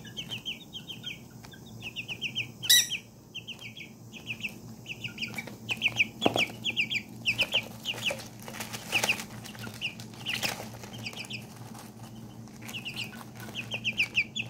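Chicks peeping in quick runs of short, high chirps, with a sharp click about three seconds in and a few scuffles. A faint steady hum lies underneath.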